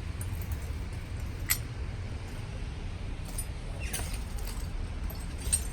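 A few short, sharp clinks or scuffs, three in all, over a steady low rumble.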